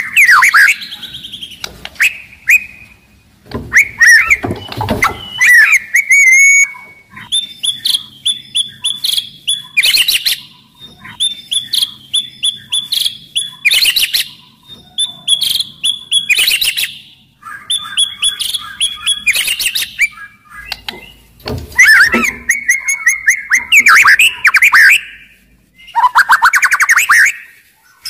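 White-rumped shama singing loudly: varied whistled phrases broken by short pauses, with runs of quickly repeated high notes and harsh chattering bursts in between.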